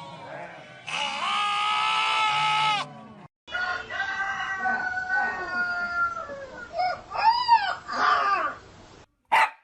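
Farm animal calls: a long held bleat-like call, then after a brief break, drawn-out calls with arching rises and falls in pitch.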